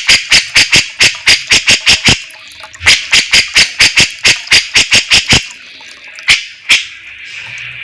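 Grey-cheeked bulbul (cucak jenggot) calling: loud, sharp notes fired in rapid series about six or seven a second, two runs of about two seconds each, then two single notes near the end.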